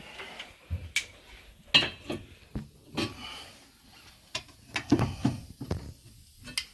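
Irregular light clicks and knocks of hands handling metal parts under a car, with quieter gaps between them.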